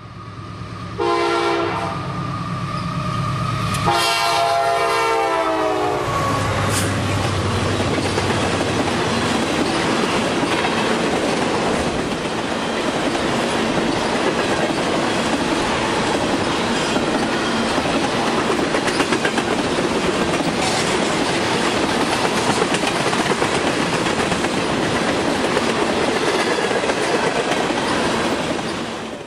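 CSX freight locomotive sounding two long horn blasts as it approaches and passes, the second falling in pitch as it goes by. It is followed by the engine's low drone and a long train of tank cars rolling past with steady wheel clatter on the rails.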